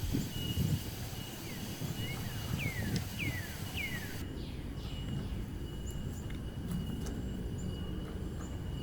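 Outdoor ambience with a low wind rumble and a steady thin high tone. Between about one and a half and four seconds in, a bird gives about five quick whistles that slide downward in pitch.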